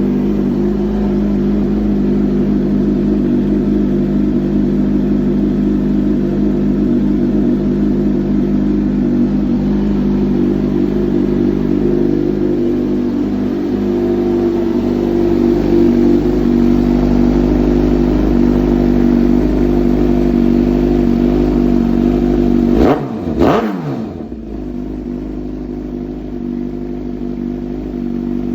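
Suzuki GSX-R1000's inline-four running through a Voodoo aftermarket exhaust, idling steadily, with one quick throttle blip a little over twenty seconds in, after which it idles slightly quieter.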